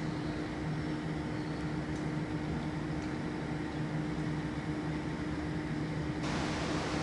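Steady mechanical hum of a standing electric or diesel train, with a low droning tone underneath. About six seconds in, a loud even hiss sets in suddenly over it.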